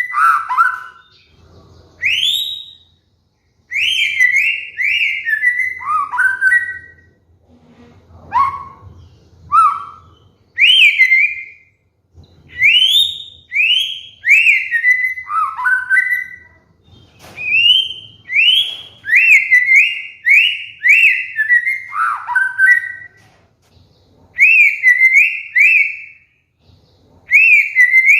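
White-rumped shama (murai batu) singing: loud, clear whistled phrases of quick rising and falling slurs, each a second or two long, repeated with short pauses between them.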